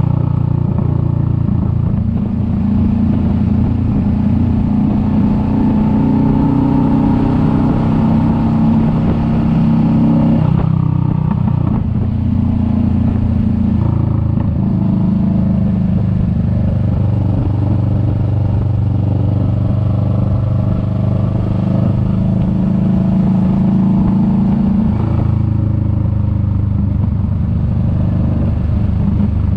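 Kawasaki Vulcan S 650's parallel-twin engine running steadily under way, its note dropping and changing pitch about a third of the way through and shifting again near the end, with road and wind noise underneath.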